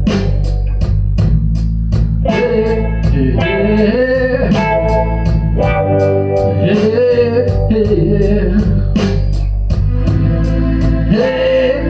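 Blues-rock band playing live: an electric guitar lead that bends in pitch over bass, organ and a steady drum beat.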